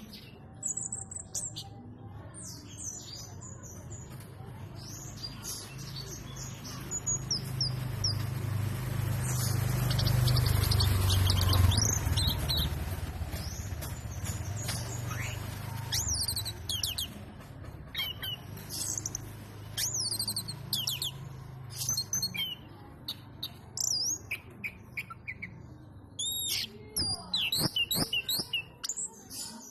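A songbird chirping and singing in quick, high, repeated phrases. A low hum swells and fades midway and is loudest around the middle.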